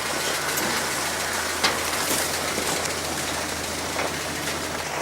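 Steady engine noise: a low hum under a broad even hiss, with a few faint clicks.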